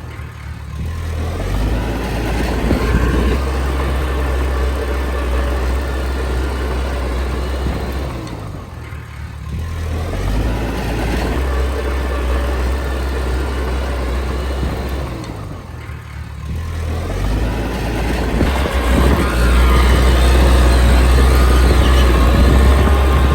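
Komatsu D20P bulldozer's diesel engine working under load, with its note dropping briefly about three times, roughly every seven to eight seconds, and loudest near the end.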